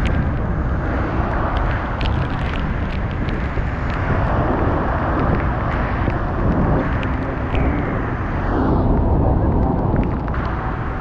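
Loud, steady roar of Niagara Falls' falling water, mixed with wind buffeting the microphone, with scattered sharp ticks of spray drops hitting it; the roar softens slightly near the end.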